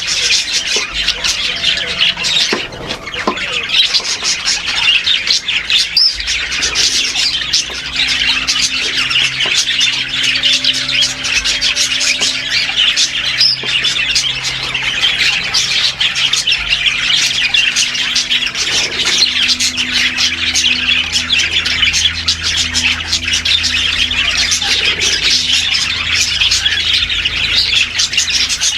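Many small aviary birds chattering and squawking all at once, a dense, continuous din with no pauses.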